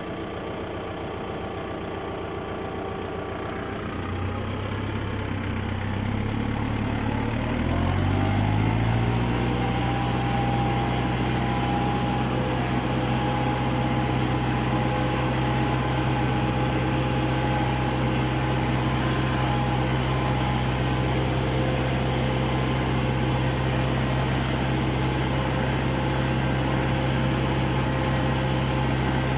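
Tractor engine speeding up from a low idle in two steps over the first nine seconds or so, then running steadily at a higher speed.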